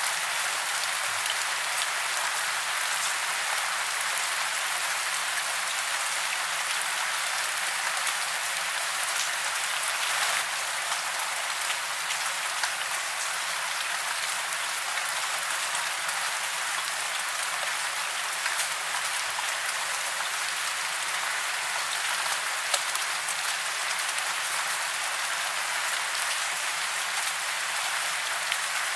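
Steady rain falling: an even hiss of many small drops that neither builds nor lets up.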